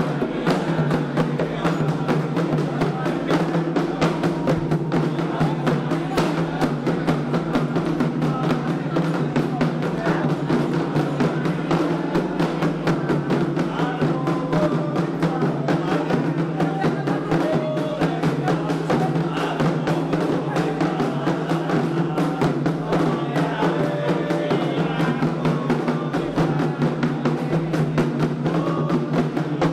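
Candomblé drumming on atabaque hand drums, a fast, steady, unbroken rhythm of strokes, with voices faintly singing along.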